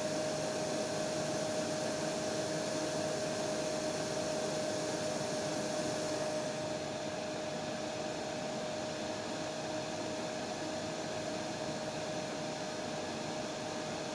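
Hair dryer running steadily: a dense blowing hiss with a steady motor whine. About six and a half seconds in, the top of the hiss dulls and the level drops slightly.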